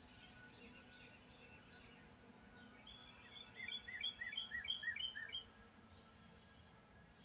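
A songbird sings a loud phrase of about six quick repeated two-note calls, lasting a bit over two seconds from about three seconds in, over a faint steady high insect trill.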